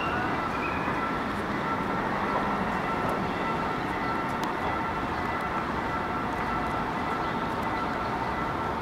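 A passenger train's wheels rolling over curved track as the train moves away, with a steady rail noise. A level-crossing warning signal rings a repeating electronic tone over it.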